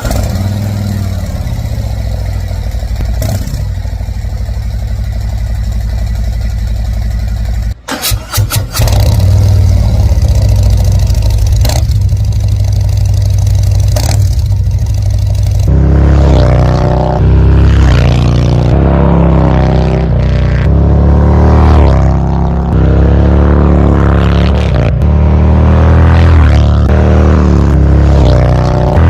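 Harley-Davidson 2024 Road Glide's Milwaukee-Eight V-twin running through its exhaust, heard on both stock mufflers and Rinehart DBX40 slip-on mufflers. For the first half it idles steadily, with a short break about eight seconds in. From about halfway it is louder and fuller, with the pitch rising and falling as the throttle is blipped.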